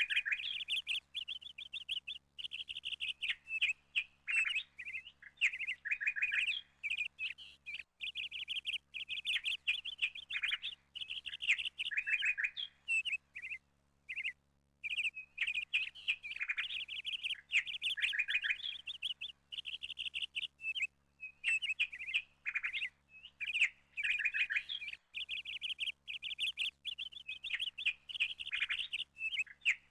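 Small birds chirping and twittering in quick runs of short notes, pausing only briefly now and then.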